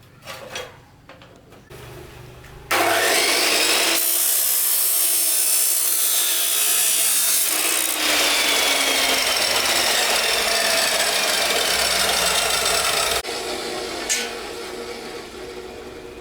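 A power tool working with a loud, harsh rasp that starts suddenly about three seconds in and cuts off about ten seconds later, followed by quieter handling clatter.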